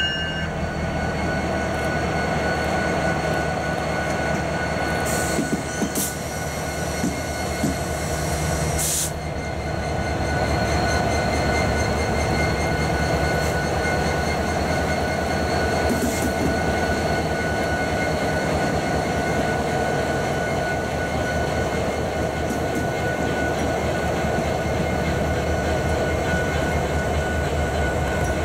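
Freight train passing close by, led by EMD SD70ACe diesel locomotives under power: a steady low engine drone with wheels rolling on the rails. Sharp metallic clanks come a few times in the first half, as the locomotives give way to the trailing unit and freight cars.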